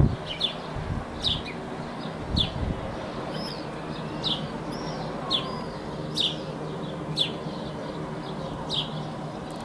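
Small birds chirping, short high calls about once a second with a few curling whistled notes in the middle, over a steady low hum. A few dull low thumps in the first couple of seconds.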